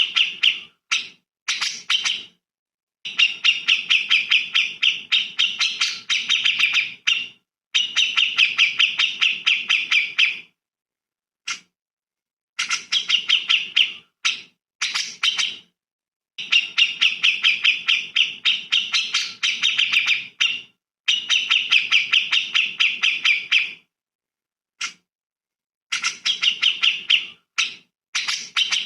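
Songbird singing in phrases of rapid, fast-repeated chattering notes, each lasting a second to three and cut off into clean silences between them.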